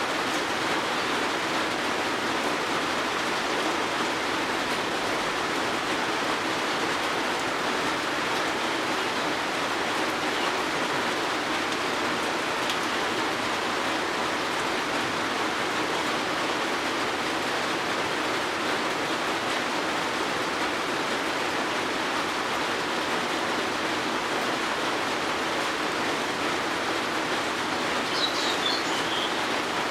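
Steady rain falling, an even hiss without let-up. Near the end a bird gives a brief burst of chirps over the rain.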